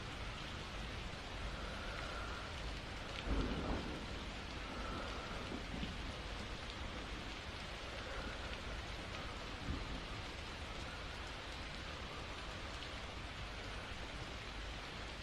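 Steady rain falling, with a brief low rumble about three seconds in.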